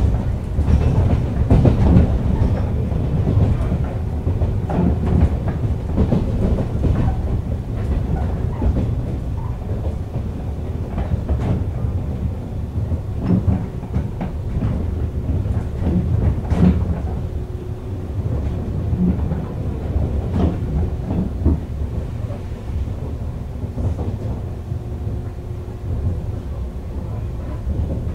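JR East 101 series electric train running, heard from on board: a steady low rumble of wheels on rail, with sharp clacks as the wheels cross rail joints.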